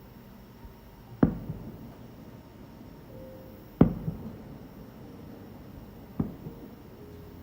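Aerial firework shells bursting: three sharp bangs about two and a half seconds apart, each followed by a short echoing rumble, the middle one the loudest.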